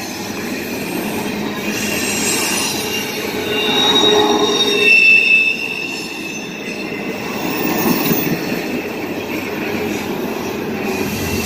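Long freight train of double-stack intermodal well cars rolling past, its steel wheels squealing on the rails over a steady rolling rumble. The squeal grows to its loudest about four to five seconds in, then eases.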